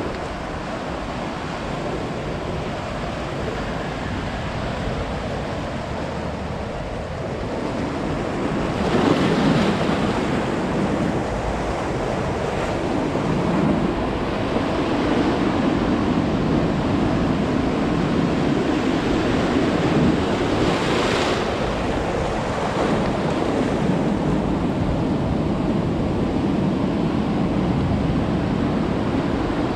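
Ocean surf washing onto a beach: a steady rush of water that grows louder about eight seconds in, with waves breaking more loudly around nine seconds and again around twenty-one seconds.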